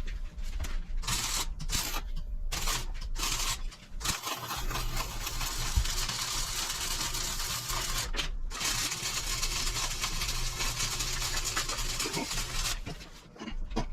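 Harsh hissing noise of a tool in use in the shop: several short bursts in the first few seconds, then a long run with one brief break, stopping shortly before the end.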